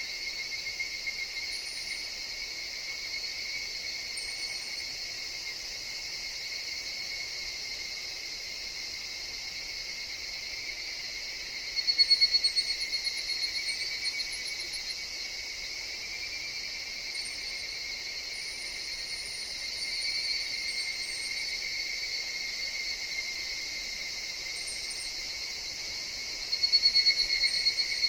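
Evening cicadas (higurashi) calling in a chorus, a steady shrill trill. A nearer one starts loud about twelve seconds in and again near the end, fading away each time. Faint, very high chirps come through now and then.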